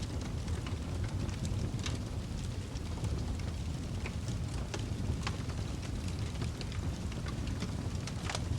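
Wood fire burning in a fireplace: a steady low rumble of the flames with many small irregular crackles and pops.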